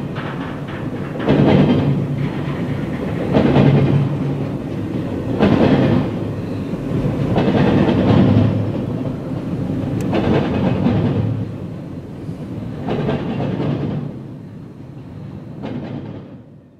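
Norfolk Southern freight train rolling through a grade crossing: the wheels clatter over the rails, swelling about every two seconds as each car's wheel sets pass. The sound fades away near the end.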